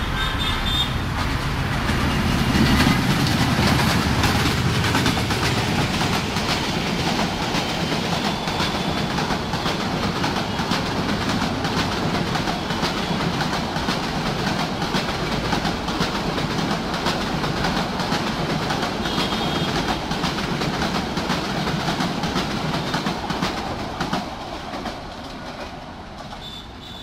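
Passenger train running past, its wheels clattering steadily over the rail joints. The sound is loudest a few seconds in and fades away over the last few seconds.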